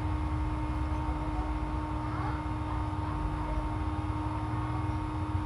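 Steady low background rumble with a constant faint hum, with no speech.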